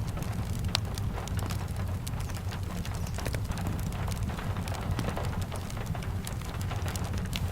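Steady rain with a low rumble, mixed with the irregular snaps and pops of a crackling wood fire.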